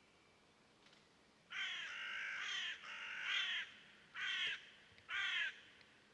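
A bird calling loudly four times: two long calls, each about a second, then two short ones.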